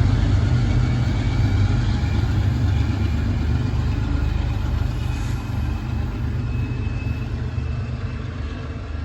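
EMD F40PH diesel locomotive's engine running, a heavy low rumble that slowly fades, with faint steady higher whining tones above it.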